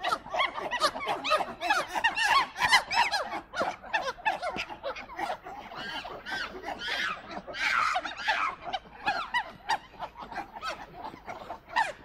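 A troop of long-tailed macaques calling: many short squeaks and chirps that rise and fall in pitch, overlapping into a busy chatter, with a louder, higher cluster of calls a little past the middle.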